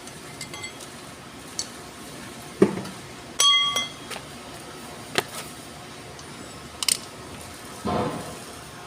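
Metal objects clinking and knocking as they are handled: a few sharp clicks, dull thuds, and one ringing clink about three and a half seconds in, over a steady background hum.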